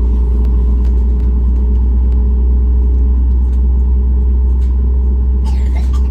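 Steady loud low rumble of a Boeing 737 MAX 8's CFM LEAP-1B engines and airflow, heard inside the passenger cabin, with a steady hum above it.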